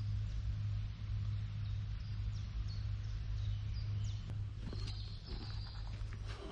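Small birds chirping outdoors: short high calls repeating every half second or so, over a steady low hum. A few faint clicks and rustles come in over the last couple of seconds.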